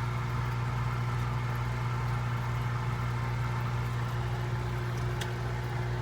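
A steady low mechanical hum, unchanging throughout, with one faint click about five seconds in.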